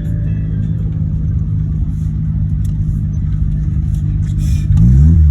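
Turbocharged 13B rotary engine of a Mazda FC RX-7 running steadily, then revving up sharply and getting louder near the end.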